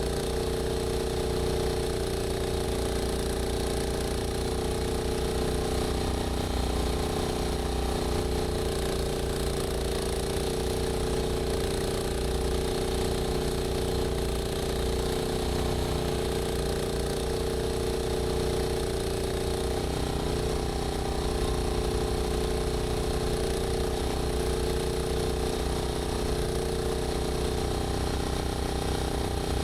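A UTV-mounted Rammy single-stage snowblower running steadily at constant speed. A steady hum sits over a fast, even pulsing low rumble.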